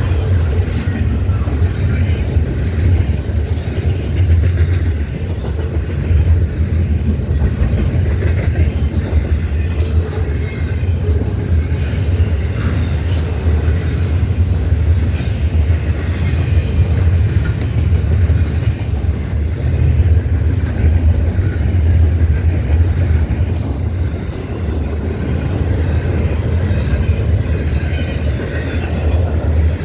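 Norfolk Southern intermodal freight train's cars rolling past on the rails, a steady low rumble with scattered clicks of the wheels over the track.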